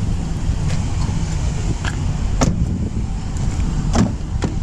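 Several sharp clicks and knocks, the loudest about two and a half and four seconds in, over a steady low rumble in a 2021 Dodge Durango R/T.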